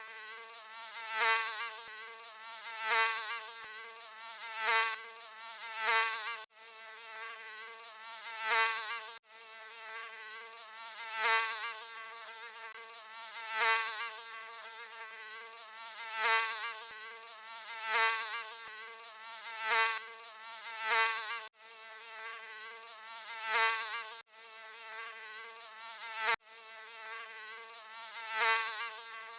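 Mosquito wings whining in a steady high-pitched buzz that swells loud and fades again every two seconds or so, as if flying close past the ear. A few sudden brief cut-outs break the drone.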